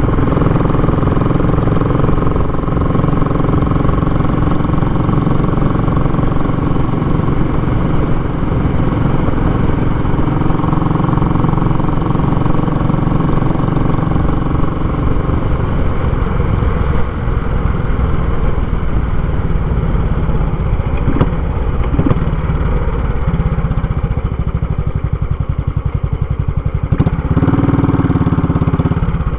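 Royal Enfield Classic 500's single-cylinder four-stroke engine running loud and raw through a short muffler. The note changes about halfway through.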